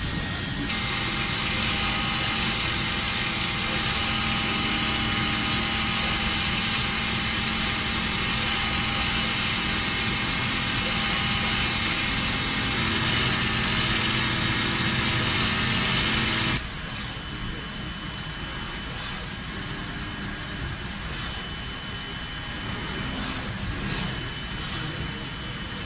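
Industrial machinery running with a steady whine of several tones over a noisy hum. About two-thirds of the way through it cuts abruptly to a quieter machine sound with occasional sharp clicks.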